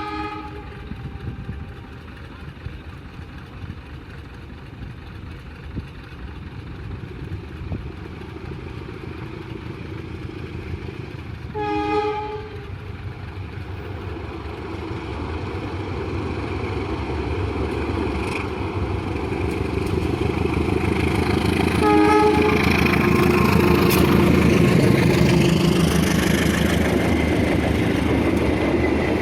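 Train approaching: its horn sounds three short blasts, near the start, about twelve seconds in and about twenty-two seconds in, while the rumble of the train grows steadily louder and peaks as it passes near the end.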